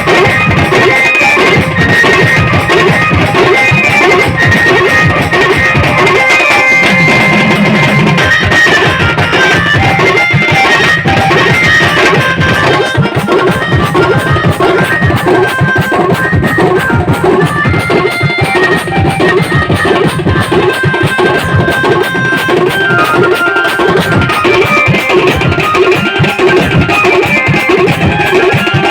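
An Indian band party playing loud music: a fast, steady drum rhythm under a high melody line.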